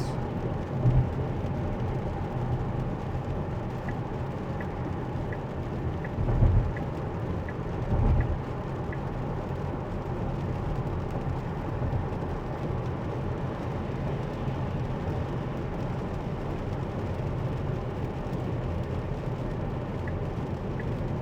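Steady road and rain noise inside an electric car's cabin on a wet freeway, with the turn-signal indicator ticking about one and a half times a second for several seconds as the car changes lanes, and ticking again near the end. A couple of low thumps fall in the middle.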